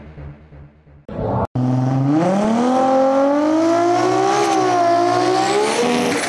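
Boosted Toyota 2JZ straight-six engine with a big turbo, revved up to high revs and held there with a slight waver for about four seconds, then starting to drop off near the end.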